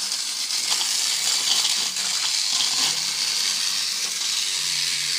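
Battery-powered Thomas the Tank Engine toy train running on its plastic Big Loader track: a steady hissing whir from its small electric motor and gears, with a faint low hum and a few light clicks.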